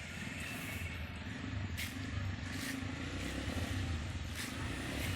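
Motorcycle engine running steadily at low revs, with a few short sharp clicks about two, three and four and a half seconds in.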